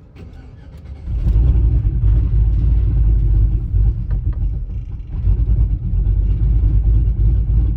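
A 2004 GMC Yukon's 5.3-litre V8 with an aftermarket Truck Norris camshaft and stock exhaust starts about a second in. It then idles with no throttle, only slightly warm in 5-degree cold. There is a click just before it fires.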